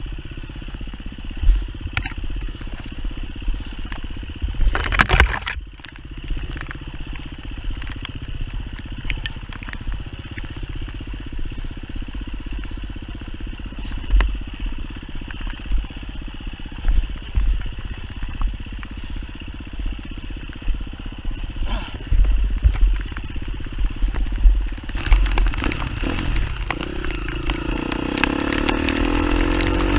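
Enduro dirt bike engine running at low, steady revs, with scattered knocks and low thumps from riding over a rough trail. Near the end the engine revs up, its pitch rising.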